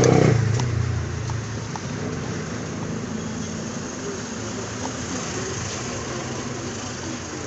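Steady mechanical background noise, like passing traffic. A louder engine-like hum fades out over the first second, and a few faint light clicks come later.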